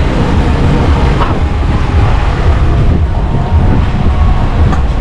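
Car engine idling with the car stopped, heard from inside the cabin as a loud, uneven low rumble.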